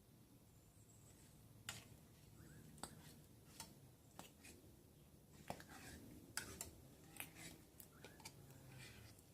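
Faint, irregular sharp clicks, about a dozen of them spaced unevenly, over a low steady hum.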